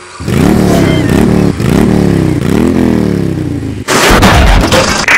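Car engine revving, its pitch climbing and dropping back three times. Just before four seconds it cuts off abruptly and gives way to loud low rumble and clatter, like wind buffeting the microphone.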